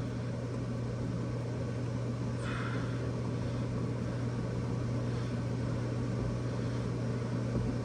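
A steady low hum over a faint even hiss, with a brief soft scrape about two and a half seconds in.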